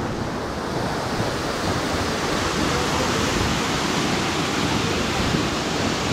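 Steady rushing noise of a 46-foot waterfall, Tea Kettle Falls, flowing.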